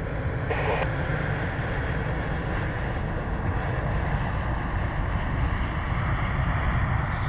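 Steady low rumble of distant jet engines, with a brief louder swell about half a second in.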